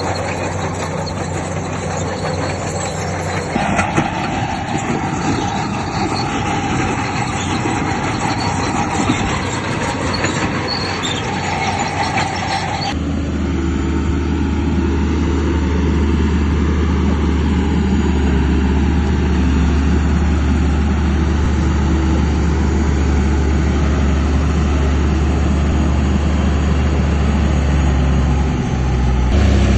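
Bulldozer at work: its steel crawler tracks squeal and clank over the diesel engine. About thirteen seconds in, the sound changes abruptly to a steady, heavy low diesel engine drone.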